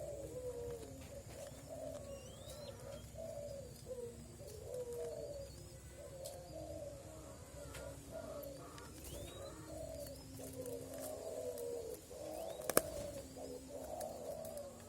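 Young spotted doves, about 26 days old, calling almost without pause in low, wavering coos. A few thin, rising chirps sound higher up, and there is one sharp click near the end.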